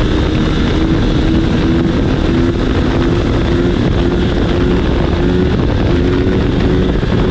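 Dirt bike engine running at a steady throttle, its pitch climbing slowly, over a constant rush of noise.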